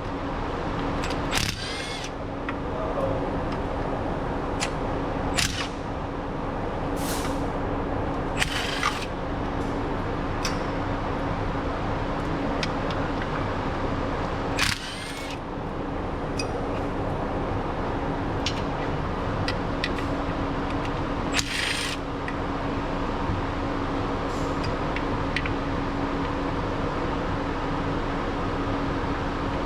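Steady shop background hum with one constant low tone, broken by scattered short clicks and a few brief hissing bursts from tool work under the car.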